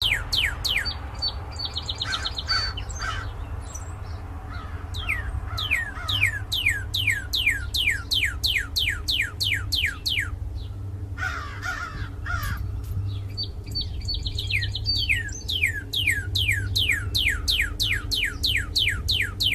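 Northern cardinal singing: long series of quick, steeply falling whistles, about two and a half a second, each series opened by a brief rapid trill. A steady low hum runs underneath.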